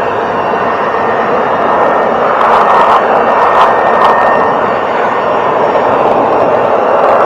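An air blower running with a loud, steady rush of air and a faint motor whine, blowing a freshly rinsed car panel dry; it swells a little about two to four seconds in.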